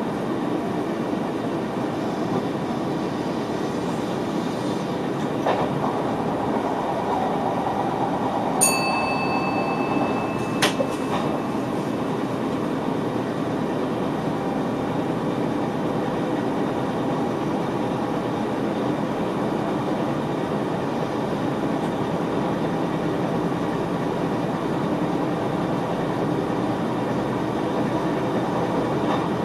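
Steady running noise of a VIRM double-deck electric train heard inside the driver's cab. About nine seconds in comes a brief electronic tone with a click, and a second click follows about two seconds later.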